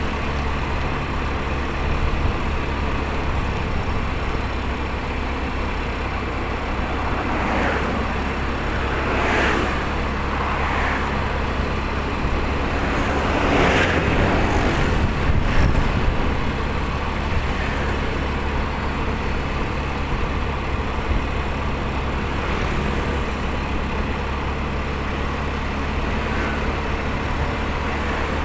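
Steady road and wind noise from riding a motorcycle, with other vehicles passing by a few times; the loudest pass comes about halfway through.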